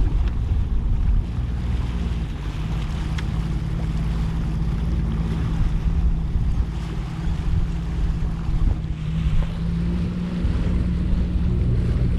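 Jet ski engine running steadily under way, a constant low hum, with water noise and wind buffeting the microphone.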